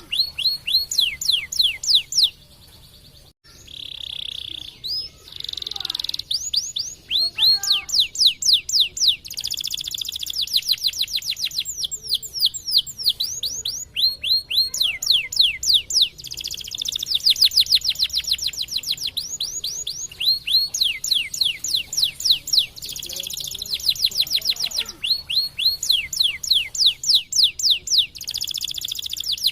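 White canary singing a long song of fast trills, each trill a rapid run of repeated down-sweeping notes, mixed with a few short held notes. There is a brief break about three seconds in.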